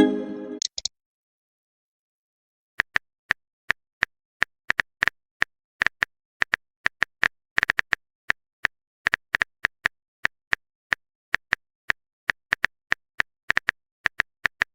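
Phone keyboard typing sound effect: sharp, irregular clicks at about three a second, as a message is typed out. In the first second there is a short pitched tone, a message sound effect.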